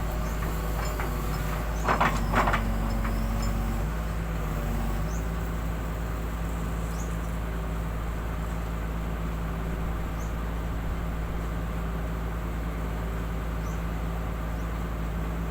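An engine running steadily with a low, even hum, with a couple of short knocks about two seconds in.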